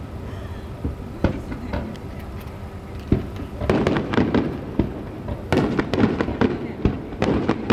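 Aerial fireworks: a few separate bangs at first, then from about halfway a dense, fast run of bangs and crackling as a star mine barrage gets going.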